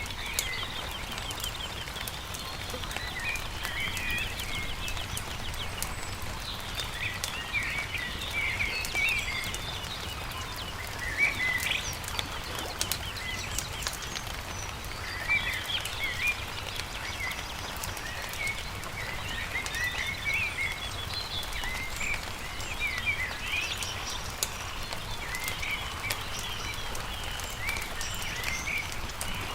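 Birds chirping and singing in short, repeated phrases and trills over the crackle and pops of a campfire, with a steady low rumble underneath.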